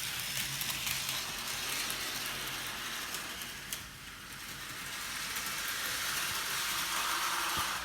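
HO scale model locomotive running along the track, its motor and wheels making a steady whirring hiss that dips slightly midway and cuts off suddenly near the end.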